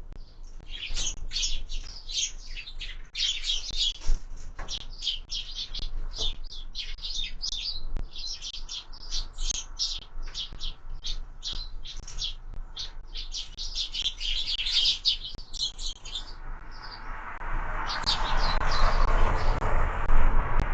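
Sparrows chirping busily at a feeder, a fast run of short, high chirps. In the last few seconds the chirping thins and a broad rushing noise swells up.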